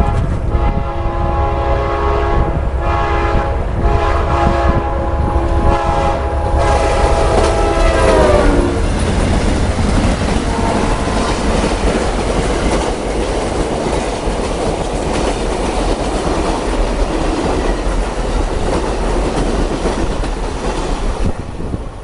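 A locomotive's air horn sounds in long blasts as the train approaches, then drops in pitch as the locomotive passes, about eight seconds in. After that the train rolls by with steady wheel-on-rail noise.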